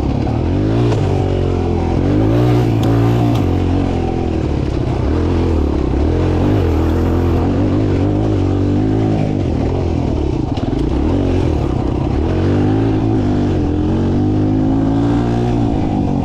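Mini dirt bike engine being ridden hard, its pitch rising and falling over and over as the throttle is opened and closed.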